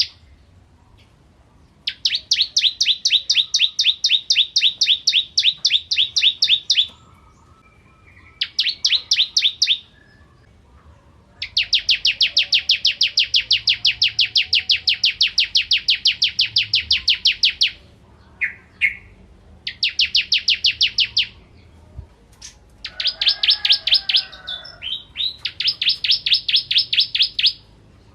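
Ciblek kristal (bar-winged prinia) song: long, even trills of rapid, sharp, high repeated notes, each phrase lasting one to six seconds, broken by short pauses.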